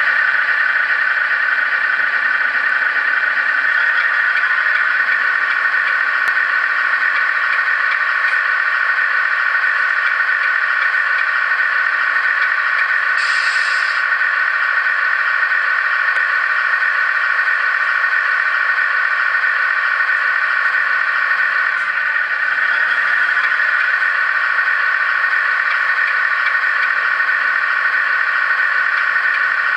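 A Scania 10x4 truck running steadily: a continuous mechanical whine and rattle with no deep rumble, broken by a short hiss about halfway through.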